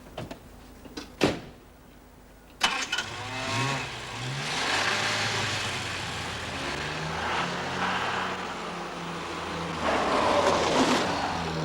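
A few sharp clicks, then a car engine starts about two and a half seconds in, revs with rising pitch and keeps running.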